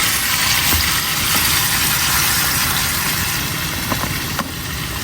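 Chicken frying in a pan, a steady loud sizzle over a low rumble, with a couple of light clicks about four seconds in.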